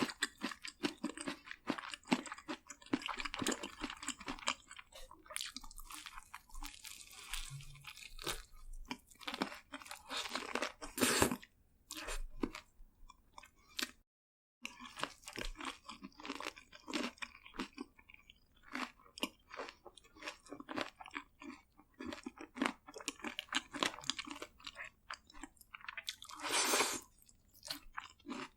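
Close-miked crunching and chewing of crispy seasoned fried chicken: a dense, irregular run of crackling bites and chews, with a few louder bites. The sound drops out completely for about half a second midway.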